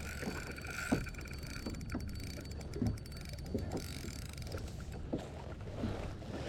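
Water lapping and sloshing against a kayak hull, with scattered light knocks.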